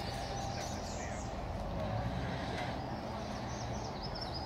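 A small bird chirping a quick run of repeated high notes, strongest near the end, over steady outdoor background noise with a low hum and faint chatter of people.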